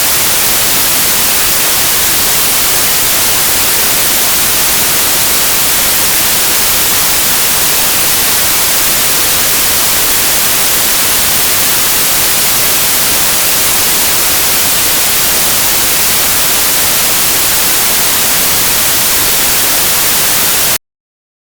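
Steady, even white noise with a bright hiss and no variation, which cuts off suddenly to silence near the end.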